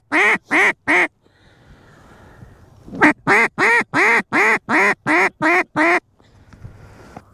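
Mallard hen duck call blown in loud runs of quacks, about three a second: the tail of one run ends about a second in, and after a two-second pause a second run of about ten quacks follows, calling ducks in to the decoys.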